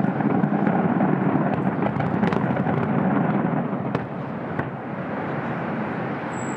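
Aerial fireworks bursting and crackling in a dense, continuous barrage, with sharp cracks scattered through it; the barrage eases somewhat about four seconds in.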